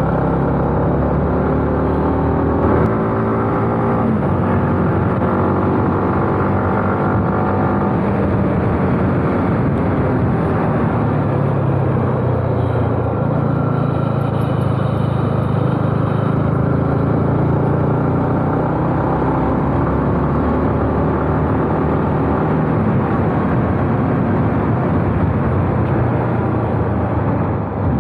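Sport motorcycle engine pulling hard uphill through winding bends, its revs rising and falling, with wind noise.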